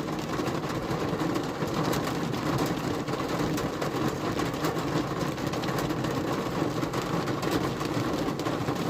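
Truck engine running steadily, with rain ticking on the vehicle.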